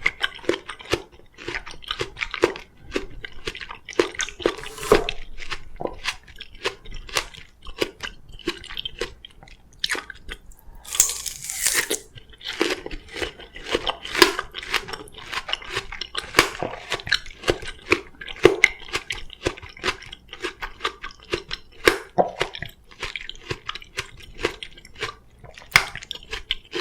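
Close-miked crunching and chewing of juicy Korean oriental melon (chamoe), a dense run of irregular crisp, wet bites and chews. About eleven seconds in there is a brief hissing burst lasting about a second.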